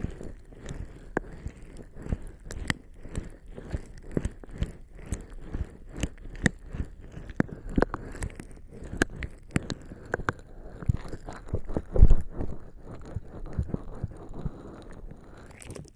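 Lubricating jelly being rubbed against a binaural microphone's ears by bare skin: wet, sticky crackling and squelching made of many irregular sharp clicks, with one louder thump about twelve seconds in.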